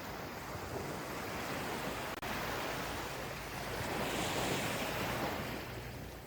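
Gentle ocean waves washing onto a beach, one swelling into a louder hiss of surf about four to five seconds in.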